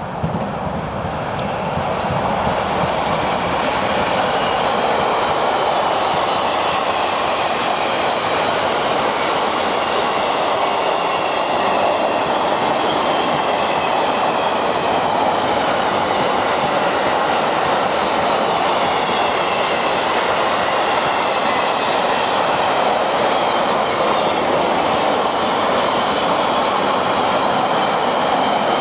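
Electric locomotive and a long freight train of loaded car-carrier wagons passing close by, a steady rolling rumble of wheels on rail that swells over the first few seconds and then holds. Faint wavering high squeals from wheels in the curve run over the top.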